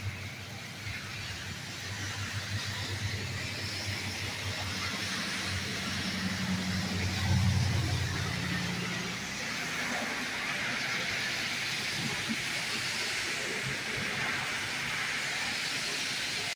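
Heavy torrential rain pouring steadily, a dense hiss. A vehicle passes on the flooded street with a low rumble that swells around the middle and is loudest just past halfway.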